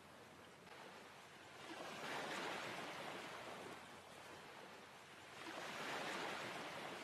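A soft rushing noise with no tone to it, swelling and fading twice, about two seconds in and again about five and a half seconds in.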